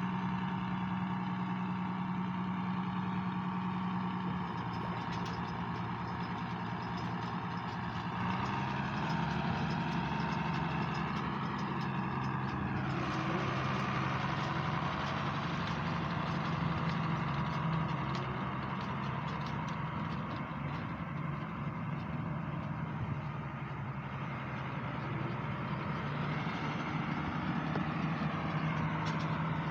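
Tractor diesel engine running steadily, its note shifting slightly about eight seconds in.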